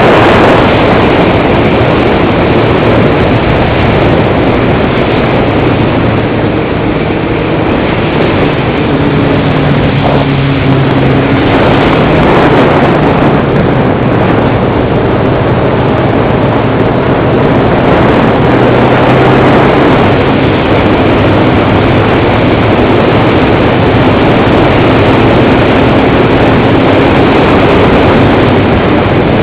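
Wind rushing over a motorcycle-mounted camera's microphone at riding speed, with the motorcycle's engine running underneath at a fairly steady pitch.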